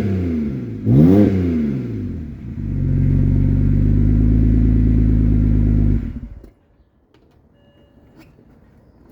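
2007 BMW 328xi's inline-six through a muffler-delete exhaust (resonators kept, straight pipe in place of the muffler). It is revved up and back down once, then held at a steady speed for a few seconds, and the sound stops abruptly about six seconds in.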